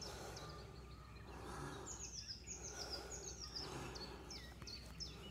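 Small songbirds singing faintly: runs of short, high chirps that fall in pitch, repeated several times, over a steady low background rumble.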